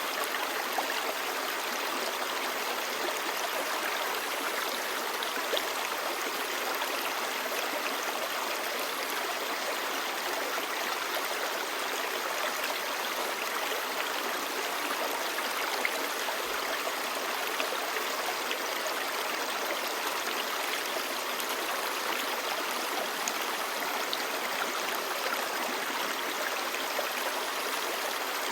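Clear mountain stream babbling steadily over rocks.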